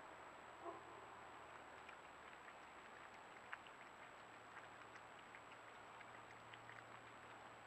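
Near silence: a trail camera's microphone hiss with a thin, steady high whine and scattered faint ticks. There is one short, faint call less than a second in.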